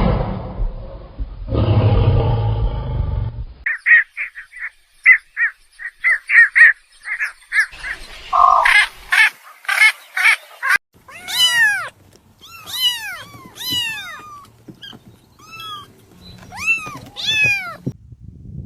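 A run of different animal calls: two low growls in the first few seconds, then a fast series of short chirps, then a string of high calls that rise and fall in pitch, repeated over and over.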